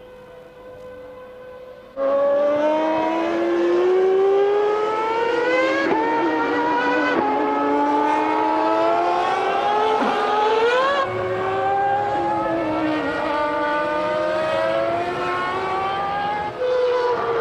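Formula One car engines revving high under acceleration. Several pitch lines climb through each gear and drop back sharply at the upshifts. A fainter steady engine note comes first, and the loud engines cut in about two seconds in.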